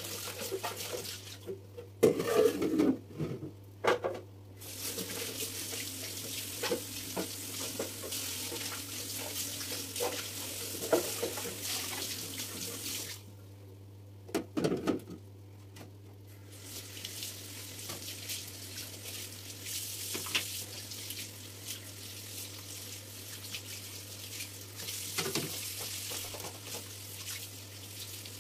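Kitchen tap running into a sink, stopping twice for a few seconds while items knock and clatter, then running again.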